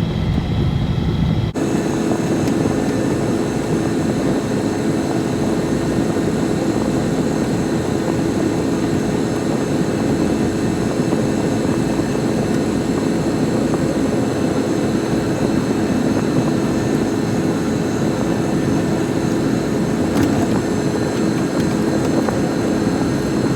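Engine of a snow-plowing machine running steadily under load while pushing snow, a continuous drone with a steady hum. The sound changes abruptly about a second and a half in, then holds steady.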